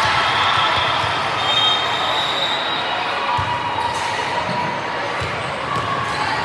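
Echoing indoor gym noise: a ball thudding on the court a few times amid steady crowd chatter and brief shoe squeaks.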